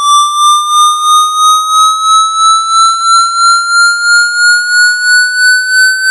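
Synthesized water-eject speaker-cleaning tone: a steady electronic tone with overtones, slowly rising in pitch and pulsing in loudness about three times a second.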